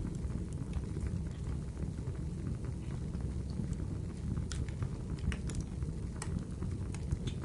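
Wood fire burning in a fireplace: a steady low rumble of flames with scattered sharp crackles and pops of the burning wood.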